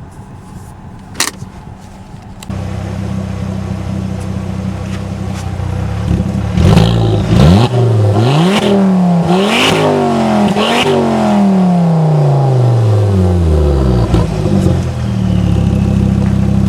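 2005 Volvo S40 T5's turbocharged five-cylinder engine through a custom side-exit exhaust with the rear muffler deleted. It runs steadily, gets louder a couple of seconds in, then revs up and down several times in quick succession with a sharp crack at each peak. One long fall in revs follows before it settles steady again.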